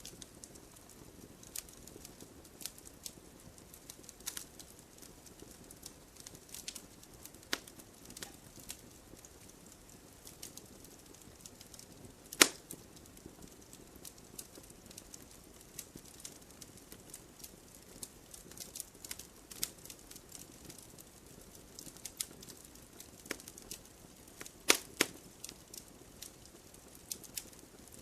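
Wood fire crackling in a fireplace: irregular sharp pops and snaps from the burning logs over a soft steady hiss, with a louder pop about twelve seconds in and a few more near the end.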